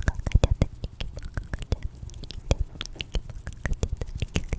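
Close-miked ASMR mouth sounds: a quick, irregular run of wet clicks and smacks, densest in the first second.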